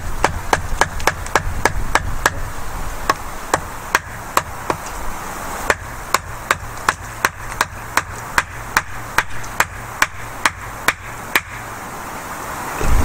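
A steady series of sharp knocks, about three a second, with a brief pause midway; they stop shortly before the end.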